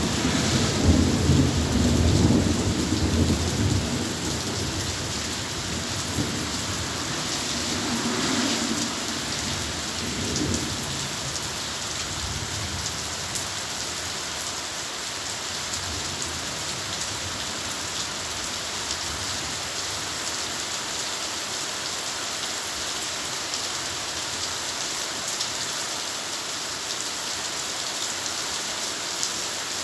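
Heavy steady rain falling, with a rumble of thunder in the first few seconds and a fainter roll of thunder about a third of the way in, then rain alone.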